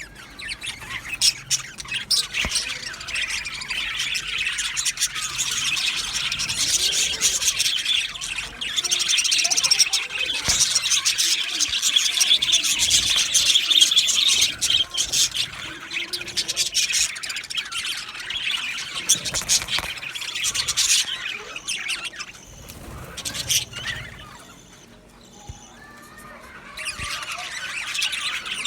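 A group of male budgerigars chattering, a dense warble of chirps and squeaky calls. The chatter thins out for a few seconds near the end, then picks up again.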